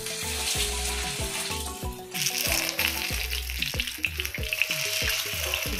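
Oil sizzling as potato-and-semolina snack squares shallow-fry in a pan, the sizzle getting suddenly louder about two seconds in as the squares are turned over into the hot oil. Background music plays throughout.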